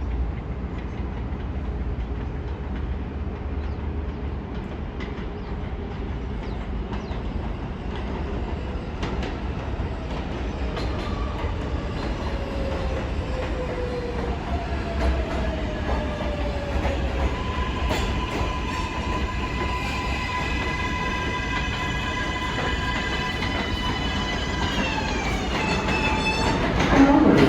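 R188 subway train approaching on the rails, its low rumble and wheel clatter growing louder. A set of electric motor whine tones falls in pitch, holds steady, then drops together as the train slows, and it gets loudest near the end.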